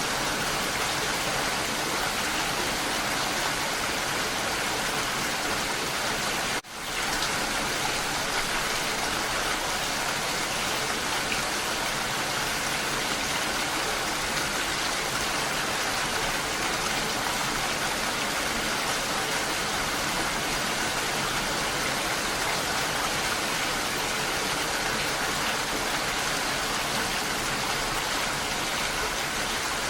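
Steady rain falling on leaves and surfaces, an even hiss of many drops, with a momentary drop in the sound about six and a half seconds in.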